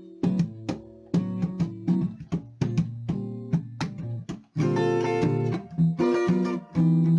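Instrumental guitar music: plucked single notes and chords that ring and decay. About four and a half seconds in there is a brief break, followed by fuller, sustained strummed chords.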